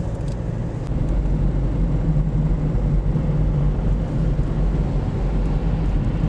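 Steady low rumble of a car's engine and tyres on the road, heard from inside the moving car, rising slightly in level about a second in.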